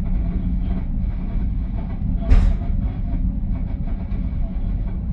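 Commuter train running along the track with a steady low rumble, heard from inside the rear cab car. There is one sharp clank a little over two seconds in.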